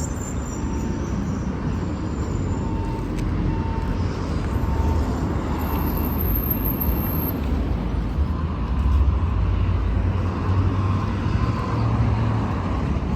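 Road traffic on a city street: a steady low rumble of passing vehicles, swelling louder about two-thirds of the way in as a vehicle passes close.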